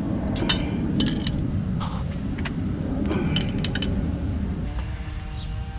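Metal tools and parts clinking and tapping against each other in a series of sharp, irregular clinks while a tight bushing is worked into a leaf spring, over a steady low rumble.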